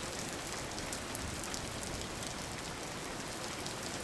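Steady rain falling: an even hiss with the short ticks of single drops scattered through it.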